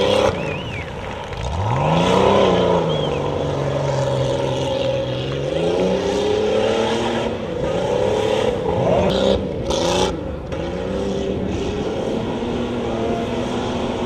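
Off-road 4x4 pickup truck engine revving hard under full throttle, its pitch sweeping up, holding, then rising and falling again, with a brief noisy burst about ten seconds in.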